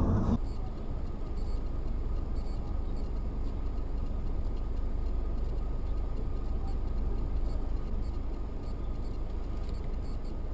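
Steady engine and road noise of a car driving, a low, even rumble with no distinct events.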